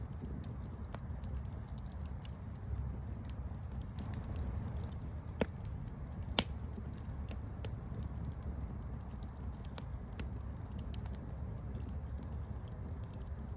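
Campfire burning with a steady low rumble and scattered small crackles, and two louder pops about a second apart near the middle, the second one the loudest.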